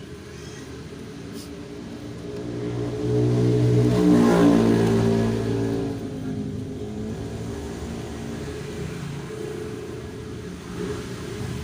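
A motor vehicle engine with a steady hum that swells as it revs, loudest about three to six seconds in, then eases back.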